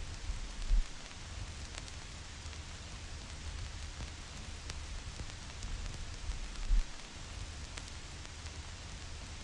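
Vinyl record crackle: a steady surface hiss dotted with small clicks and pops from the stylus in the groove. Two louder low thumps come about a second in and again near seven seconds.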